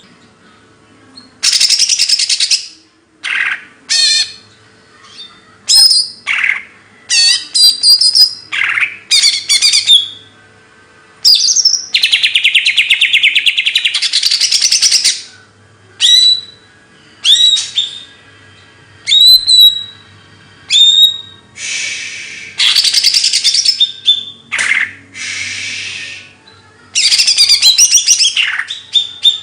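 A songbird singing loudly in bursts: long, fast, buzzy trills and chattering phrases, broken up by short, sharp whistled notes that drop in pitch, with brief pauses between phrases.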